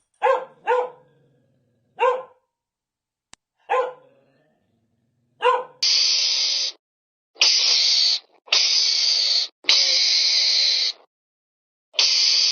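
A dog barks five times in short single barks, then the sound changes to a harsh hiss from an animal, repeated in about five bursts of roughly a second each.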